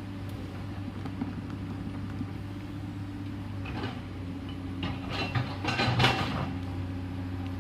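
Komatsu PC210LC excavator's diesel engine running steadily, with a few short, louder noises from about four to six seconds in.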